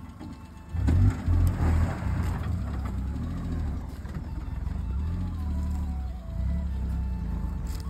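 A small Maruti hatchback's three-cylinder petrol engine revs up sharply about a second in, then keeps running under steady load. Soft background music with a stepping melody plays over it.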